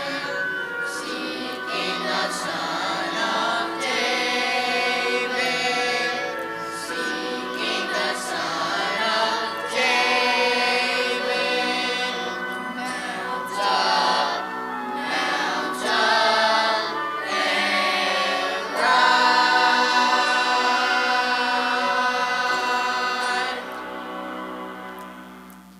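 A choir singing with accompaniment, the music fading away near the end.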